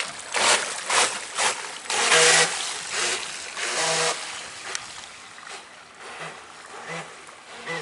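Radio-controlled electric jet boat running on the water: repeated surges of rushing, splashing water and spray as it speeds up and eases off, with a brief motor whine in a couple of the surges.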